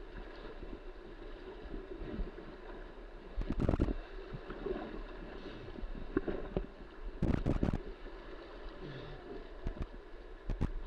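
Whitewater creek water rushing steadily, with two brief clusters of loud knocks, about three and a half and seven and a half seconds in, and a few lighter taps.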